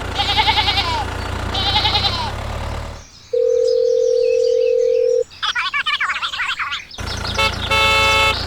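Two bleating sheep calls over the steady hum of a small toy-tractor motor. The motor hum cuts out about three seconds in, and a steady beep tone of about two seconds follows, then a stretch of rapid chirping. The hum comes back near the end with a short pitched tone.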